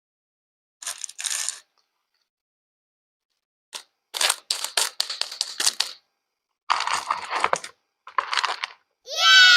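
Short bursts of crisp crackling and clicking, separated by dead silence. Near the end comes a loud whistle-like tone that rises briefly and then slides downward.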